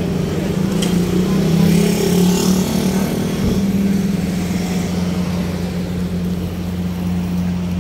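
Motor vehicle engine running close by with a steady low hum, swelling slightly about two seconds in.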